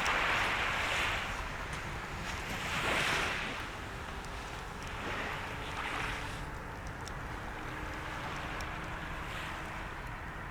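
Sea waves washing onto the shore, swelling up and falling back about every two to three seconds, with small crackles from a bonfire.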